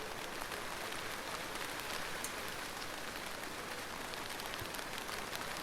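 Steady rain falling, a dense even hiss with many separate drops ticking on a surface.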